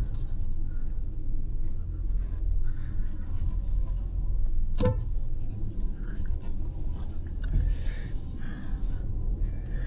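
Hyundai Verna 1.5 turbo petrol's four-cylinder engine and road noise as a low, steady rumble heard from inside the car while driving. A brief sharp click comes about halfway through, and a hiss about two seconds from the end that cuts off suddenly.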